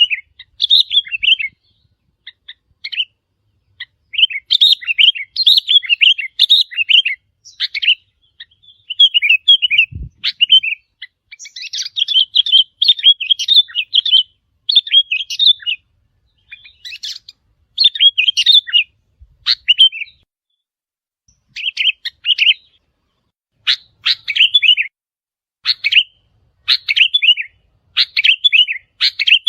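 Sooty-headed bulbuls singing: short chirping phrases repeated over and over with brief pauses between them. A faint low thump comes about ten seconds in.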